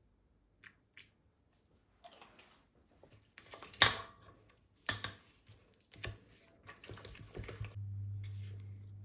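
Small clicks and knocks of objects being handled, with one sharp clack about four seconds in, then a steady low hum sets in near the end.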